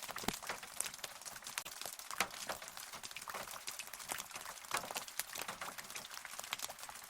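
Rain falling steadily, with many close drops and drips landing irregularly among the hiss of the downpour.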